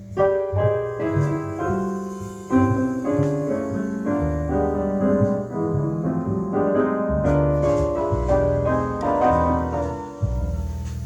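Piano music with a prominent bass line, a steady run of notes, played back over Klipsch Forte III loudspeakers.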